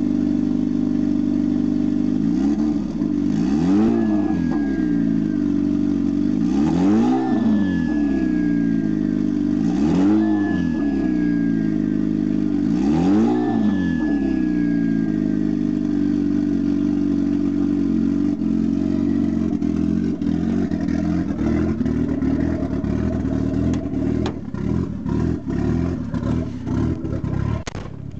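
Turbocharged SR20DE four-cylinder engine of a 1997 Nissan 200SX SE-R revved four times, about three seconds apart. Each time the throttle shuts, a recorder fitted to the blow-off valve gives a thin whistled note that slides down in pitch as the valve vents. After that the engine runs on steadily, with a run of sharp clicks over the last few seconds.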